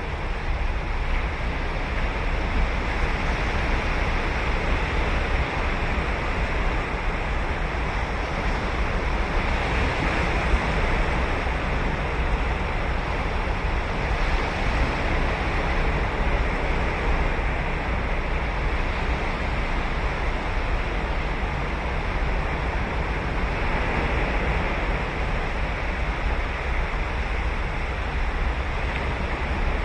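Ocean waves breaking and washing onto a sandy beach in a steady surf roar, with swells of hiss about ten, fifteen and twenty-four seconds in as waves break, and low wind rumble on the microphone.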